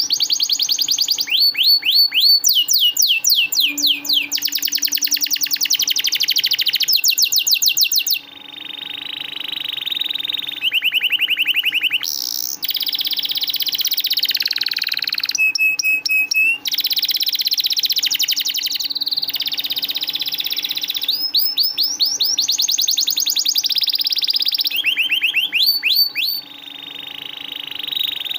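Domestic canary singing a long, continuous song: rapid repeated chirping sweeps and trills alternating with sustained buzzing rolls, changing phrase every second or two.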